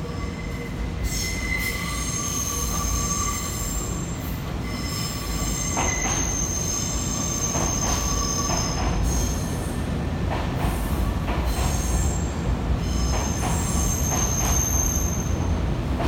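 Nankai electric train rolling slowly through the station's tracks, its steel wheels squealing in high, wavering tones that come and go over a low running rumble, with a few rail clicks.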